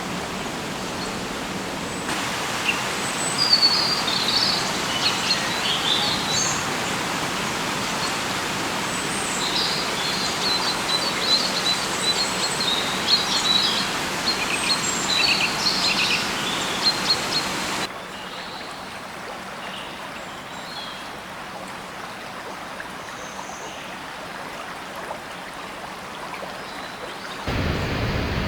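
Rainforest ambience: a steady rushing noise with many short, high bird chirps and calls. About 18 seconds in the sound cuts abruptly to a quieter background with only a few calls, and near the end it cuts again to a louder, deeper rush.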